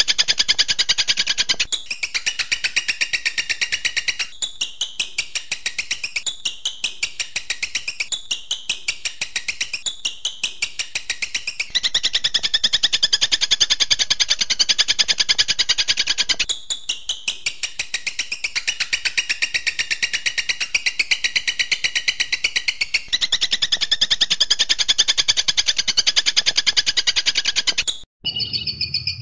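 Songbird song from a masteran training track: fast, dense runs of rapidly repeated high notes, the pattern switching every few seconds. It cuts off abruptly for a moment near the end.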